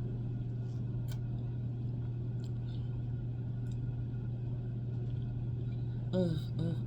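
A steady low hum with a few faint, light clicks, and a brief spoken word near the end.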